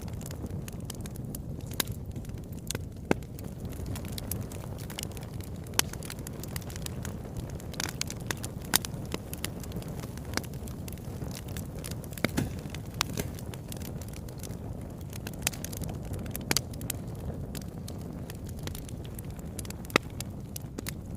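Wood fire burning in a fireplace: a steady low rumble of the flames with scattered sharp crackles and occasional louder pops at irregular intervals.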